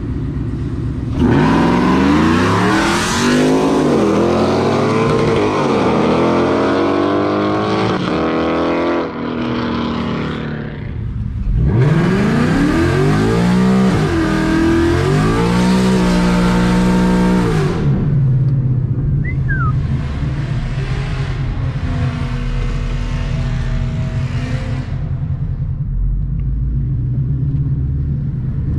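Cars accelerating hard in two back-to-back runs, each engine revving up and dropping back at every gear shift. Quieter engine sound follows, settling into a steady low rumble near the end.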